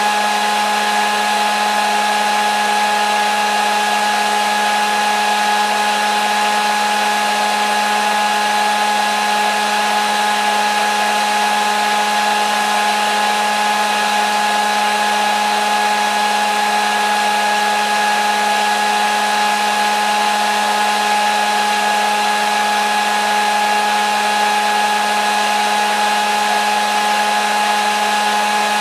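Hair dryer running steadily, an even rush of blown air with a constant motor whine.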